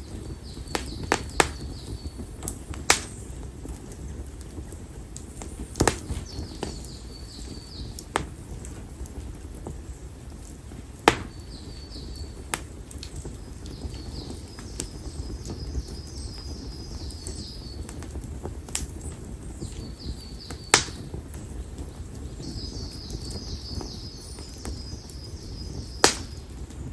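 Split konara oak firewood burning in an open campfire: a steady low rush of fire with sharp crackling pops every few seconds, the crackle this oak is known for. A rapid, high chirping comes and goes several times behind it.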